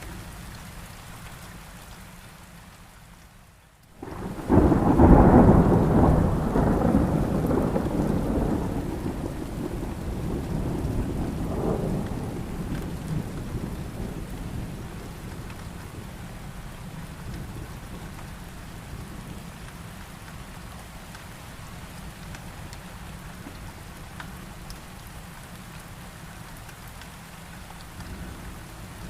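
Steady heavy rain. About four seconds in, a loud clap of thunder breaks in and rumbles away over roughly ten seconds, with a second, weaker roll near twelve seconds.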